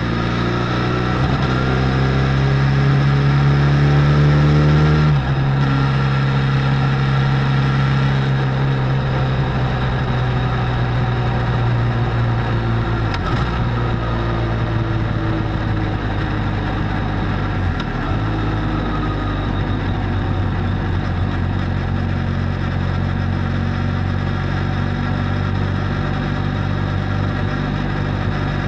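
Benelli Leoncino 500's parallel-twin engine through its stock exhaust while riding: the pitch climbs under acceleration for about five seconds, drops abruptly, then holds an even cruising note with two brief dips.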